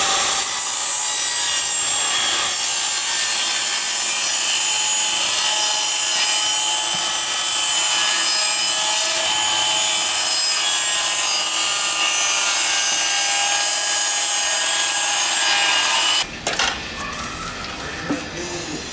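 Heavy rain falling, a loud steady hiss. It cuts off suddenly near the end, leaving a quieter stretch with a few clicks.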